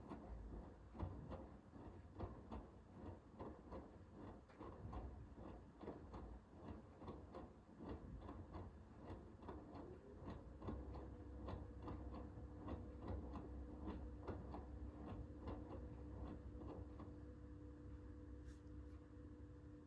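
Hoover H-WASH 500 front-loading washing machine in the wash phase of a cotton 60 programme: the drum turns and the wet laundry inside tumbles with a quick, irregular patter of soft knocks and clicks, two or three a second. About halfway in a steady motor hum comes in and holds, while the knocking thins out near the end.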